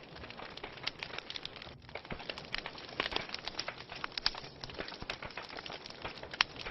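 Wood fire in a fireplace crackling, with many irregular sharp pops over a soft steady hiss and one louder pop near the end.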